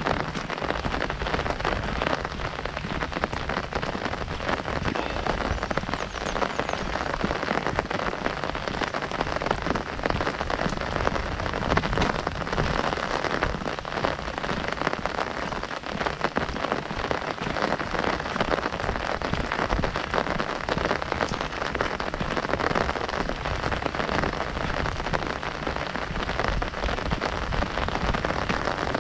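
Heavy rain falling on an umbrella overhead: a dense, steady patter of countless drops.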